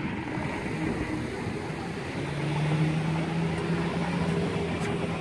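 A car engine running, with a steady low hum that grows stronger about two seconds in, over street noise.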